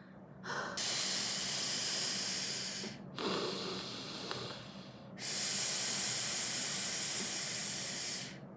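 A woman's heavy breathing close to the microphone: a long exhale, a quieter breath in, then another long exhale.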